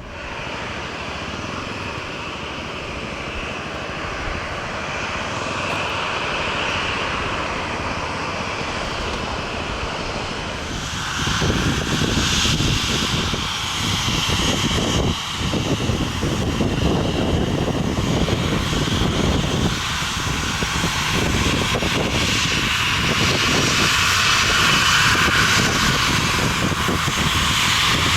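Airliner engines running, growing steadily louder, with a jump in level about 11 seconds in, then staying loud.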